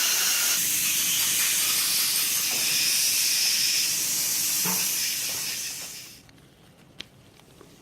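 A loud, steady hiss, like gas or liquid spraying, that fades out about six seconds in, then a single sharp click.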